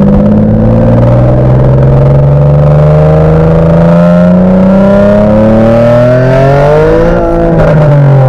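Infiniti VQ V6 car engine accelerating hard, its note climbing steadily for about seven seconds before the pitch changes abruptly near the end.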